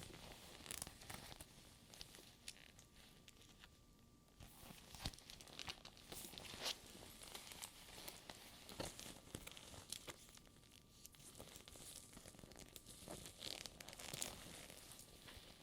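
A sticky faux-leather purse being handled up close: the tacky surface peels and rubs with soft crackling rustles, broken by scattered small clicks.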